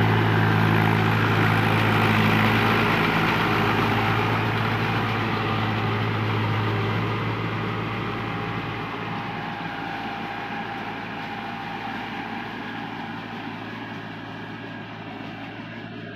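Mahindra DI 575 tractor's diesel engine running steadily, its sound growing gradually fainter.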